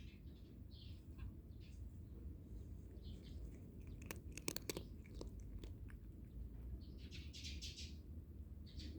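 A cat crunching dry kibble, faint, with a quick cluster of crunches about halfway through. Birds chirp several times around it.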